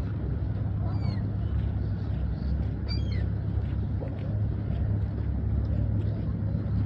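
Steady low rumble of wind buffeting the microphone. A few short, high chirps sound about one second and three seconds in.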